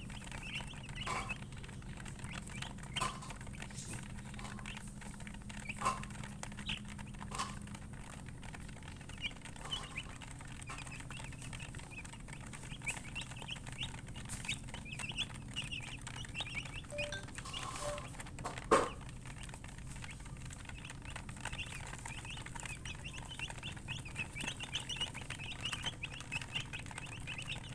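Chickens chirping: a steady run of short, high peeps throughout. A few soft knocks come in between, with one sharper, louder knock about 19 seconds in, over a steady low hum.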